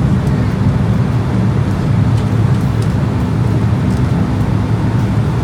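Boeing 767 cabin noise: a steady low rumble from the engines and airframe as the airliner taxis after landing.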